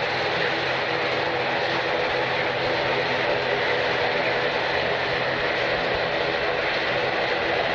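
Steady jet engine noise from an airliner at the airport, an even hiss-like roar at a constant level.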